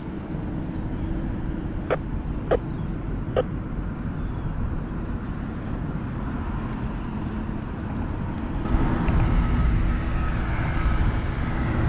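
Wind rumbling on the microphone over a steady motor hum, which grows louder about nine seconds in. Three light clicks come about two to three seconds in.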